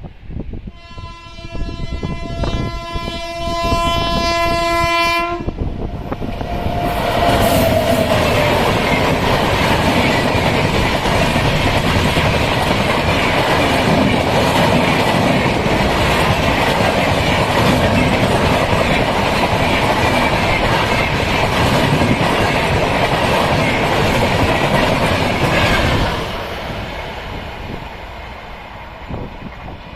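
Indian Railways WAP7 electric locomotive sounding a long horn blast for about four seconds, then an express train passing at high speed with loud, steady wheel and track noise for about twenty seconds before it fades away.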